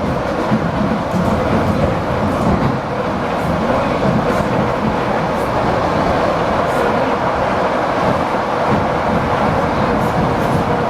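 ED4M electric multiple unit running steadily between stations: continuous rumble and hiss of wheels on rail and running gear, with a few faint light ticks.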